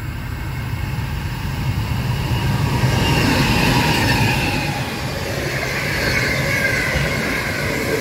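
Diesel-hauled freight train passing close by at speed. The rumble builds as the locomotives approach over the first few seconds, then holds as the wagons roll past, with high, drawn-out squealing tones from wheels on the rails.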